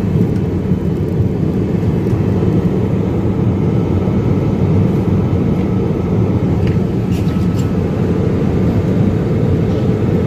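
Steady low engine and airflow noise inside a jet airliner's cabin during descent.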